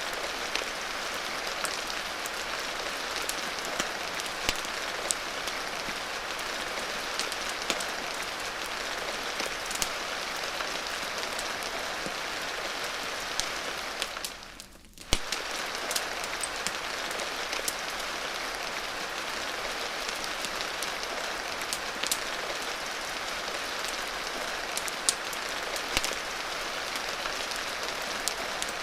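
Steady rain hiss with frequent sharp crackles of a wood fire. About halfway through, the sound fades down for a moment and then comes back abruptly.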